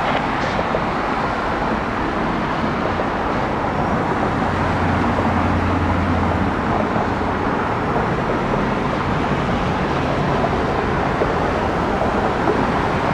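Jet airliner engine noise: a loud, steady roar, with a low hum coming in briefly about four seconds in.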